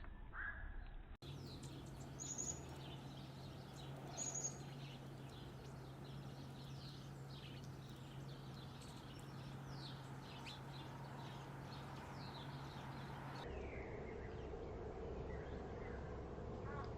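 Small birds chirping and calling over faint outdoor background noise and a low steady hum. The background changes abruptly about a second in and again near the end, and a quick series of repeated chirps comes near the end.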